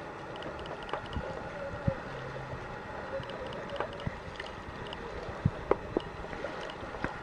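A boat running steadily on the water: a continuous drone with a low hum, broken by scattered light knocks and clicks.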